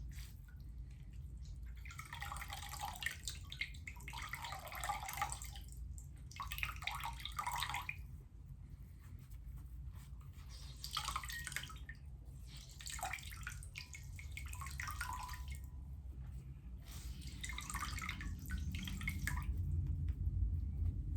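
Water trickling and splashing by hand, made for ASMR, in about seven short spells with brief pauses between them, over a low steady hum.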